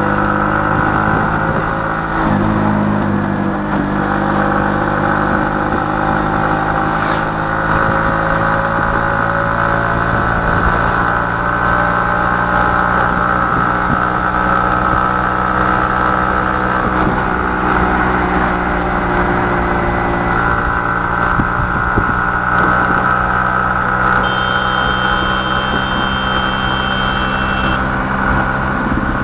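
A motor vehicle's engine running steadily, its hum holding an even pitch with slight drifts.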